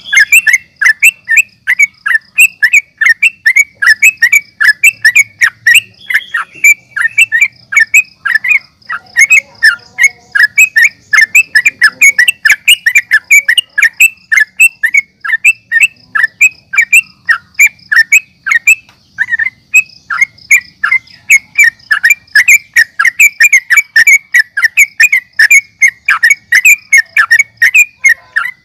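Yellow-vented bulbul (trucukan) singing without a break: a fast, steady run of short chattering notes, about three or four a second, over a thin, steady high-pitched trill.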